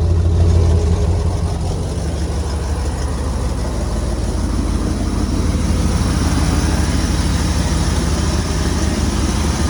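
1996 Ford F-250's 460 big-block V8 idling steadily, running halfway decent while its ignition timing is set by ear. The engine note dips slightly about two seconds in, then recovers.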